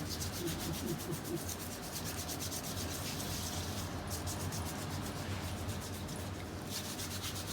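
A pedicure file or sanding tool working over the skin of the feet: a steady, fast, rasping rub that goes on without a break.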